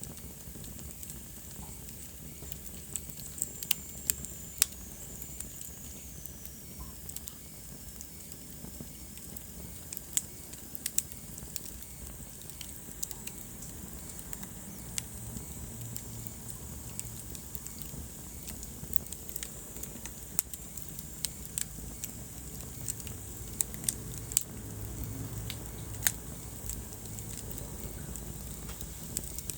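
Wood fire burning in a fireplace, crackling: irregular sharp pops and snaps over a steady low rumble. A faint high whistle falls in pitch about four seconds in.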